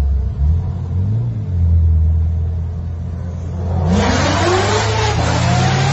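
Car engine running low, blipped once about a second in, then revving hard and accelerating from about four seconds in, its pitch sweeping upward under a loud hiss of noise.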